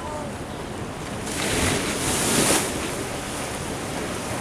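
Ocean surf washing in steadily, with one wave surging up loudest a little past a second in and falling back after about a second and a half.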